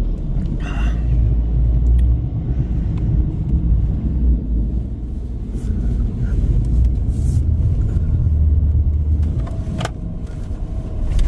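Ford F-350 pickup truck driving in four-wheel drive: a steady low rumble of engine and tyres, with a few short sharp knocks.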